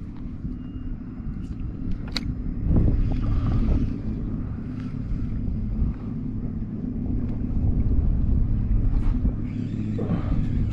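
A boat motor running steadily: a low rumble with a steady hum, with wind on the microphone. There is a sharp click about two seconds in.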